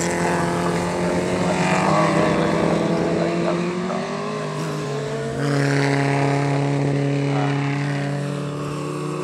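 Historic Formula Junior racing car engines running hard, their pitch rising slowly as the cars accelerate. A second, louder engine at a lower pitch comes in about five seconds in.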